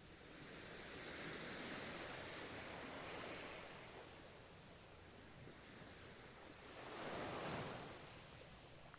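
Ocean surf washing in: one long wave swells and fades over the first few seconds, and a second, shorter wave comes in near the end.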